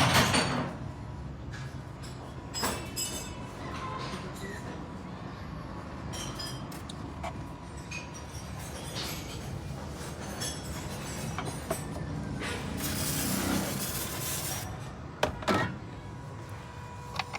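Repeated metallic clinks and knocks of hand tools and car parts being worked on, over a steady low rumble, with a longer hiss about thirteen seconds in.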